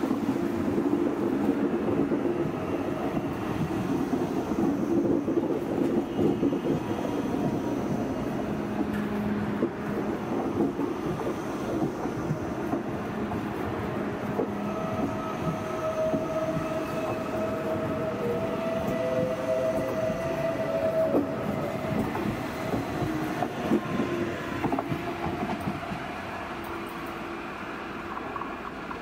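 Deutsche Bahn ICE train rolling slowly past the platform: a steady rumble with wheel clicks over the track. A thin whine or squeal comes in about halfway through and lasts a few seconds.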